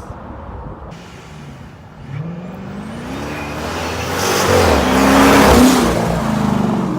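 Dodge Charger R/T's ProCharger-supercharged 5.7 HEMI V8 revving. The pitch climbs from about two seconds in, the engine is loudest about five seconds in with a rush of hiss, then it drops back.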